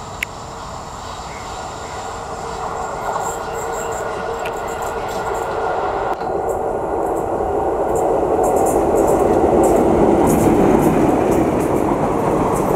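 Express passenger train hauled by a WAP-4 electric locomotive approaching and passing close by. Its rumble grows steadily louder as the coaches roll past, with wheels clicking over the rail joints.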